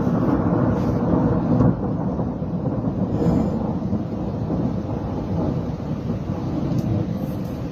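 Thunder rumbling in one long, continuous low roll, loudest in the first couple of seconds and then easing off a little.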